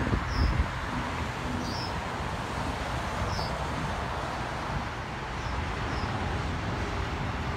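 Freight train of autorack cars rolling past: a steady rumble and rattle of wheels on rail. Short high bird chirps come a few times over it.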